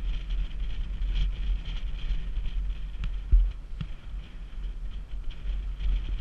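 Wind buffeting the microphone over the steady noise of a boat running on the water, with one thump about three seconds in.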